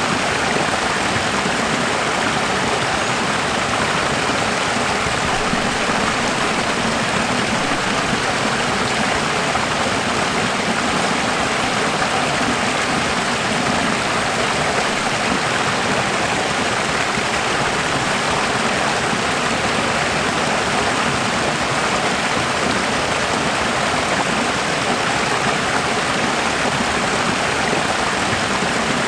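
Running water, a steady rushing with no change in level.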